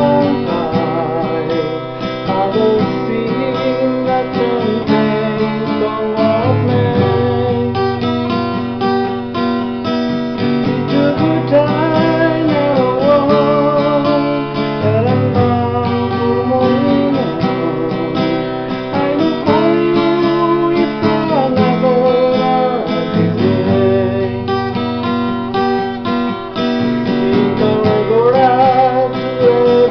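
Acoustic guitar music: a strummed acoustic guitar with a wavering melody line over it.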